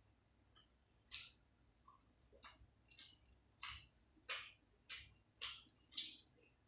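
Wet mouth sounds of someone eating rice and fish curry: a run of about eight short smacks and chewing clicks, coming roughly every half second in the second half.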